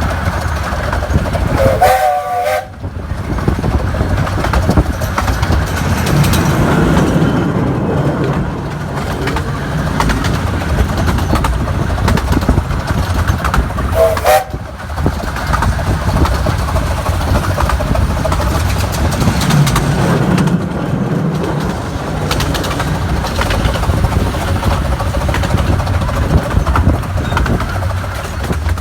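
A 15-inch gauge miniature railway train running along the track, a steady rumble and rail clatter. Brief high tones sound about 2 seconds in and again around 14 seconds in.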